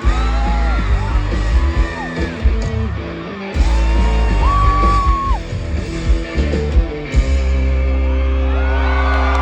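Live rock band playing loud, with heavy bass and drums under yelled, sung vocals; about seven seconds in the band settles onto a long held chord.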